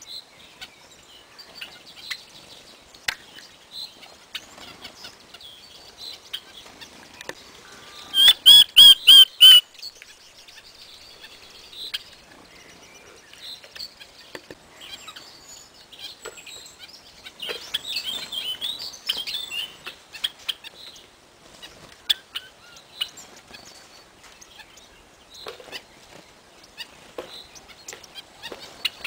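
Aviary birds chirping in short scattered calls, with a run of about six loud, sharp calls around eight seconds in and a busier stretch of chirping around eighteen seconds in.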